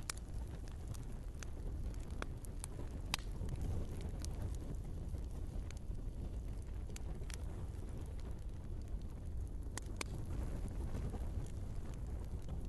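Wood fire burning in a fireplace: irregular sharp crackles and pops over a steady low rumble of the flames. The loudest pops come about three seconds in and again around ten seconds.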